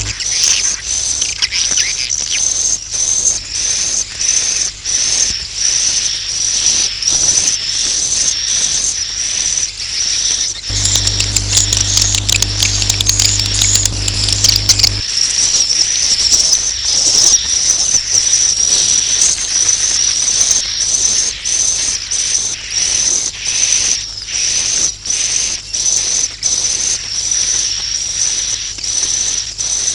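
Recorded swiftlet roosting call: a dense, continuous train of high, rapid twittering chirps. It is the 'inap' call played in swiftlet houses to lure the birds to roost. A low hum joins briefly about eleven seconds in.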